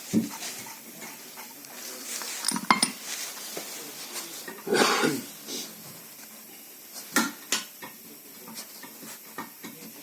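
Scattered metal clinks and knocks of tools and brake-caliper parts being handled, with one louder, longer sound about five seconds in.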